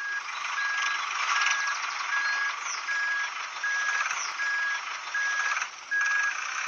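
Vehicle reversing alarm beeping steadily, a little over one beep a second, over the continuous noisy running of a heavy machine.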